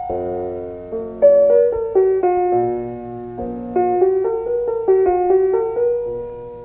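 Piano music: a slow melody of single notes over held chords, the notes struck and left to ring.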